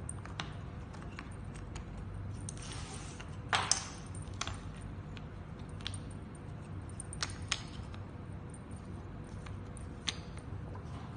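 Toy puzzle pieces being handled and set down: a scatter of light clicks and taps over a low steady hum, with a brief rattle about three and a half seconds in.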